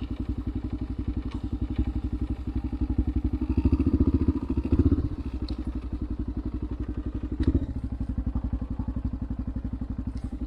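Motorcycle engine idling with an even, fast pulse. It swells briefly twice in the middle, and there is a single knock a little later.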